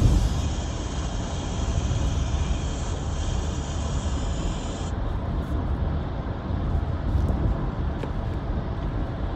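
Car road noise from inside the cabin while driving on a rainy day: a steady low rumble with a hiss of tyres on the road that drops away abruptly about five seconds in.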